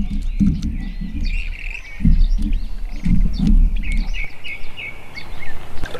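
Songbirds chirping and singing in many short, repeated notes. Under them, low rumbling bursts come and go through the first four seconds, then stop.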